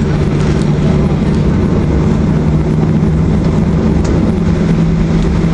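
Steady cabin noise inside a Boeing 737-800 airliner: a constant low hum under a loud, even rush of engine and airflow noise.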